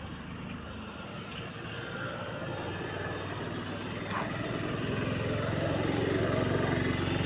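A motor vehicle engine running, growing louder over the last few seconds, with a couple of faint knocks.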